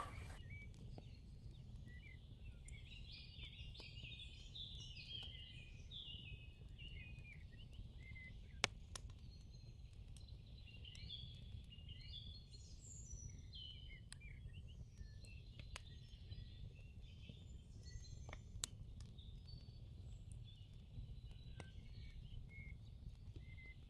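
Faint birdsong: several small birds chirping and twittering in short, quick phrases, over a steady low hum, with two sharp clicks about a third and three quarters of the way through.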